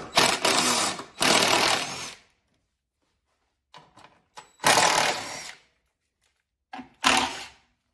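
Cordless 1/4-inch impact driver running in four bursts of about a second each, hammering out the 10 mm bolts and screws that hold a car's plastic under-engine shield.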